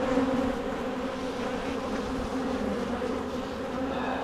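Honeybees buzzing around an opened hive, a steady dense hum.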